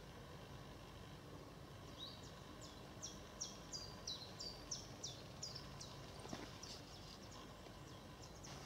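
A small songbird calling in a pine forest: a run of short, high chirps, each falling in pitch, about three a second from around two seconds in, with a couple more near the end, over a faint outdoor background.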